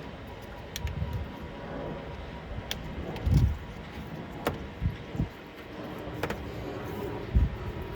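Hand tools working on coolant hoses in an engine bay: scattered sharp metallic clicks of pliers on hose clamps, with a few dull knocks in between.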